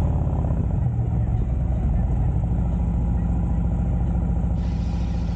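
Harley-Davidson Road Glide Special's V-twin engine running steadily with a low, even pulse. A faint hiss joins near the end.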